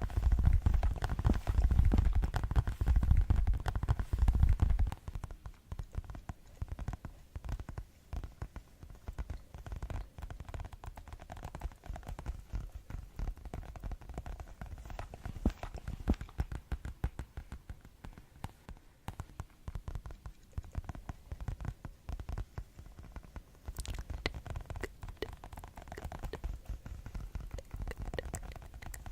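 Rapid ASMR tapping, many fast taps in a dense patter. For the first few seconds the taps are louder and deeper, thudding; then they go on lighter and quieter.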